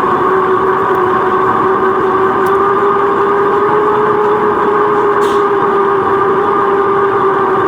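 Steady riding noise from a bicycle on the move, picked up by a GoPro: constant rushing wind with a steady, even hum-like whistle.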